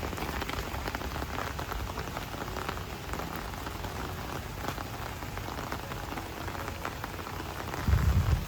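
Heavy rain falling, a steady hiss dotted with the patter of individual drops. Near the end a loud low rumble swells up under it.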